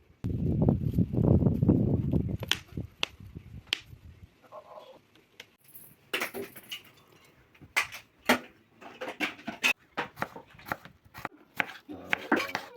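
A loud, low rustling noise for about the first four seconds, then a run of irregular sharp clicks and scrapes of a utensil against cookware or a plate of fried potatoes.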